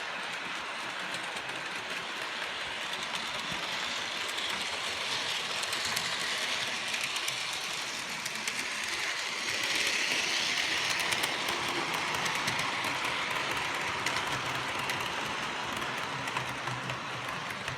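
Bachmann OO-gauge model steam locomotive running on its track with a coach train: the small electric motor whirs while the wheels click over the rail joints. It grows louder towards the middle as it passes close, then fades.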